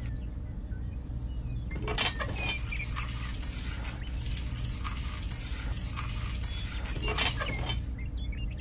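Light metallic jingling over a steady low hum, with a knock about two seconds in and another about seven seconds in.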